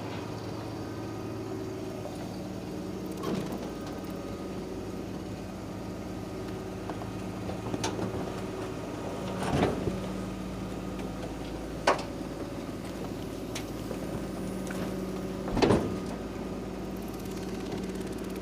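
Garbage truck running with a steady hum, with a handful of sharp knocks and clanks from bins being handled.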